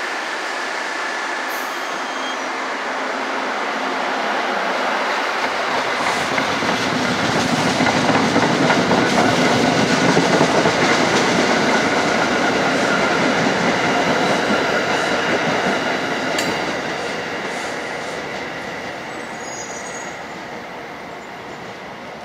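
NJ Transit commuter train passing on the near track, steel wheels on the rails. The noise builds to a peak about halfway through, then fades as the train draws away.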